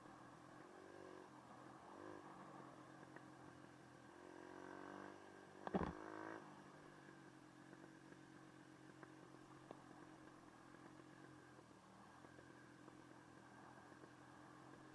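Faint dirt bike engine running steadily, with a short rise in revs about four to five seconds in. A single sharp knock comes just before six seconds, the loudest moment.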